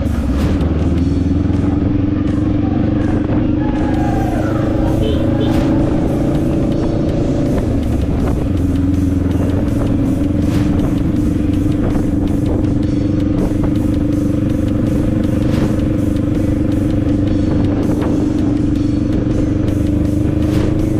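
Motorcycle engine running at a steady speed, with music underneath.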